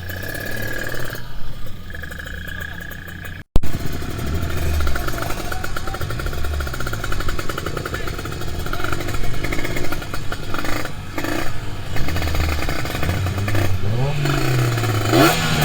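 Kawasaki Ninja 150RR two-stroke single-cylinder motorcycle engine running, its revs rising and falling, and climbing again near the end. The sound breaks off for an instant about three and a half seconds in.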